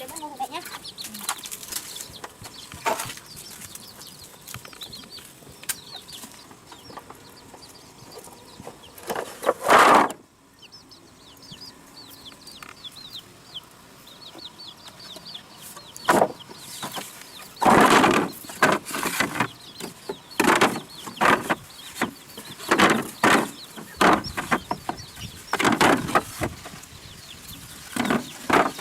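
Chickens clucking and chirping, with a string of short, loud bursts, most of them in the second half.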